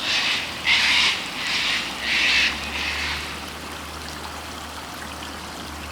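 Five harsh, scratchy bird calls of about half a second each come in quick succession over the first three seconds. They are louder than the steady rush of a rocky stream running underneath.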